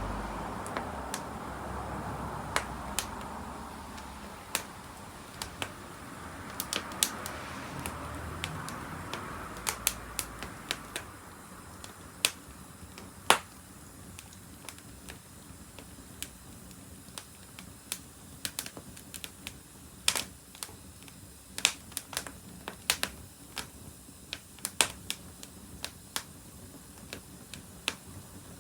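Wood fire crackling, with irregular sharp pops and snaps. A soft rushing noise underneath fades away over the first ten seconds or so.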